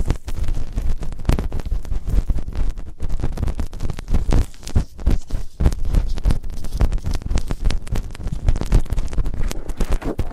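Close-up ASMR sounds on a binaural microphone's ear: rapid, irregular rubbing, scratching and clicking right against the mic, with muffled low rumbling from the contact.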